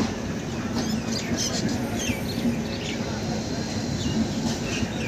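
Passenger train coaches rolling slowly past, wheels rumbling and clattering on the rails, with short high squeaks now and then.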